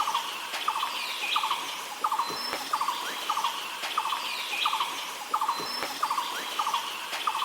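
Rainforest wildlife calls: a short, rapid chirping trill repeats about every two-thirds of a second, with higher bird chirps and brief thin whistles over a steady background hiss.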